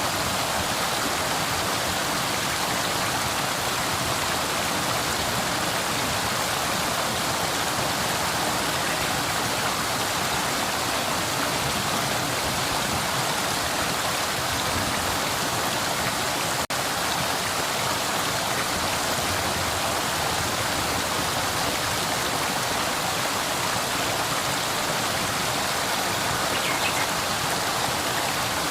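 Flowing river water rushing steadily in an even, unbroken wash, with one momentary dropout about halfway through.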